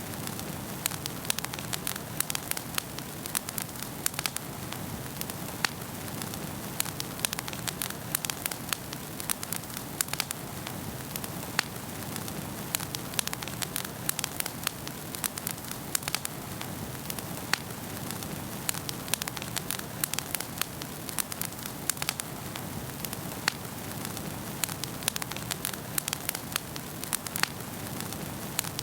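Wood fire burning in a fireplace: constant irregular crackles and pops over a low steady rush of flame.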